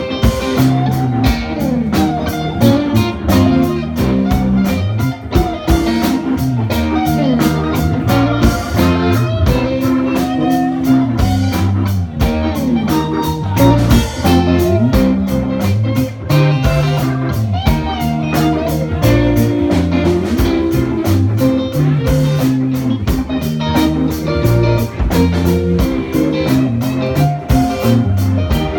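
Live rock band playing an instrumental jam: guitar lines over moving bass notes and a steady drum beat.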